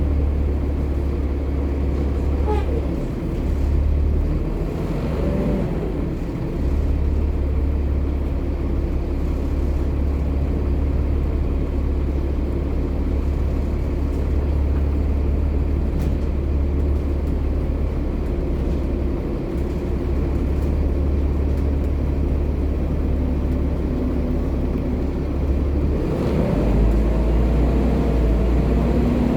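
Volvo B7TL double-decker bus's diesel engine running steadily under way, its pitch rising twice, about five seconds in and again near the end, as it picks up speed.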